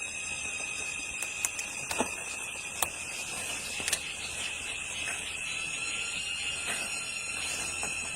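A steady high-pitched whine with a few sharp clicks and knocks scattered through it.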